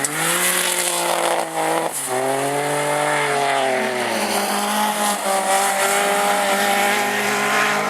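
Supercharged Volvo V6 autograss racing car engine at full race pace, its pitch falling and rising as it lifts off and pulls through corners, with two brief dips in the first couple of seconds and a steadier high note in the second half.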